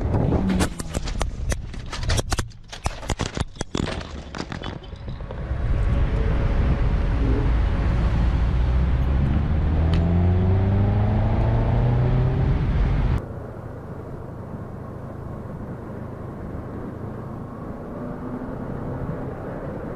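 Motorcycle engine accelerating hard, its pitch rising in repeated climbs through the gears, after a few seconds of sharp crackling noise. The sound cuts off abruptly to a quieter steady rumble about two-thirds of the way through.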